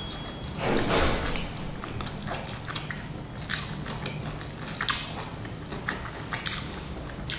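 Close-up mouth sounds of biting into and chewing a pan-fried dumpling: soft wet smacks with a few sharper clicks scattered through.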